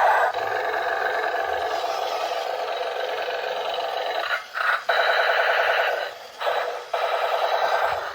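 An electronic warbling, alarm-like tone from a toy's small speaker. It runs steady for the first few seconds, then turns into a fast pulsing warble from about five seconds in, with two brief breaks.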